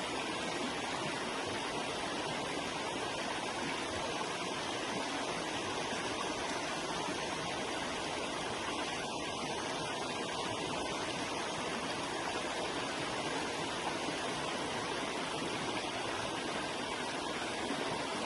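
A forest river flowing over rocks, a steady, even rushing of water.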